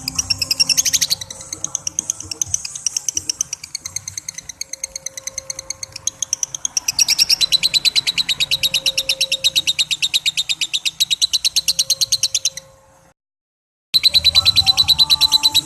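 Lovebird 'ngekek': a long, rapid chattering trill of evenly repeated high-pitched notes. It is softer at first and grows louder about halfway through. It breaks off into a second of silence near the end, then starts again.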